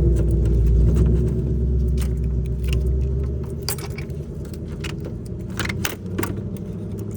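Metal hand tools clicking and clinking, hose clamp pliers working a spring hose clamp on the radiator hose, over a steady low rumble that eases off about halfway through.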